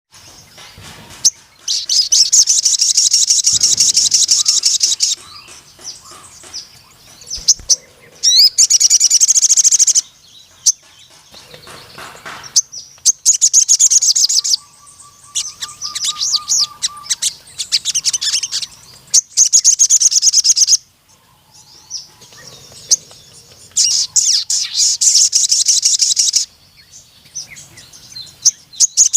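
A sogon (ruby-cheeked sunbird) singing long, rapid, high trills in repeated bursts of a few seconds each, with softer chirps between them: the long-firing song.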